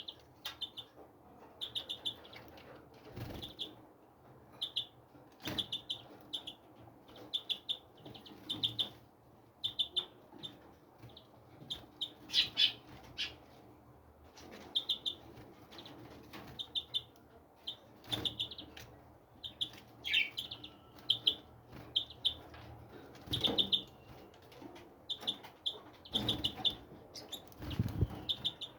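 Small birds chirping, short quick calls repeated every second or so, with a few dull low thumps mixed in.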